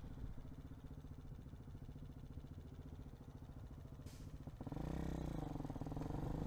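Hawk 250 motorcycle engine running at low revs. About four and a half seconds in it gets louder as the throttle opens, the pitch rising, dipping and rising again under acceleration. A brief hiss comes just before the rise.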